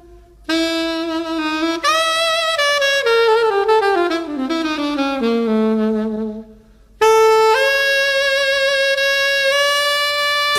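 Background music: a solo saxophone plays a slow melody, with a long descending phrase, a short pause, then a long held note near the end.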